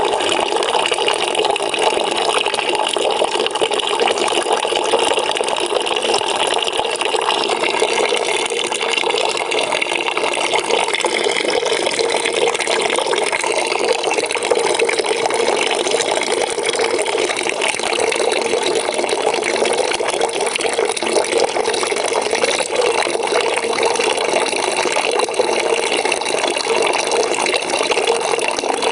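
Water pouring into a bucket as it fills, a steady splashing.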